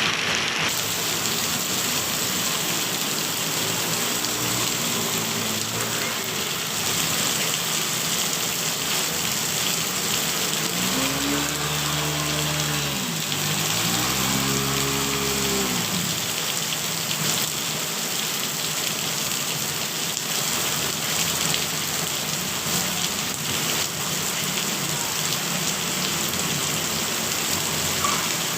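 Heavy rain falling steadily. About halfway through, an engine revs up and back down twice in quick succession, and a fainter one is heard a few seconds in.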